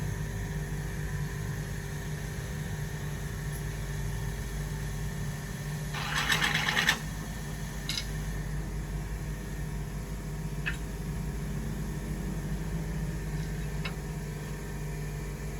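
Toyota Corolla GLI engine idling steadily, with a brief burst of hiss about six seconds in and a few light clicks later on.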